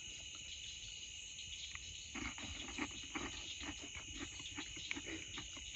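Steady chorus of crickets and other night insects. From about two seconds in, irregular soft crunches and clicks close by, of someone chewing crackers and sardines.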